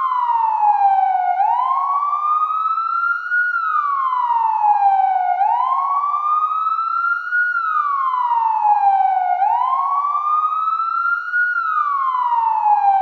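Emergency vehicle siren in a slow wail, its pitch rising and falling about every four seconds, three full cycles.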